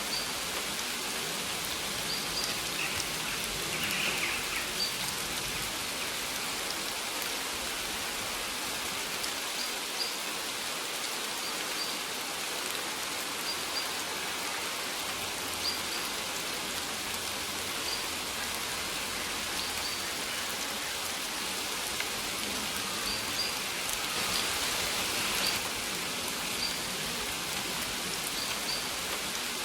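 Steady rain falling, an even hiss with a few slightly heavier swells. Short high bird chirps sound every couple of seconds over it.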